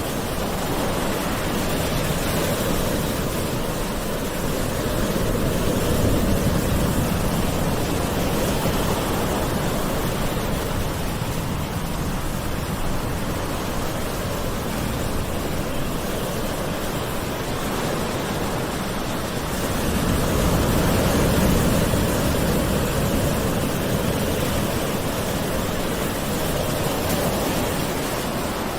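Gentle ocean waves washing onto a shore: a steady wash of surf that swells twice, about six seconds in and again about twenty seconds in.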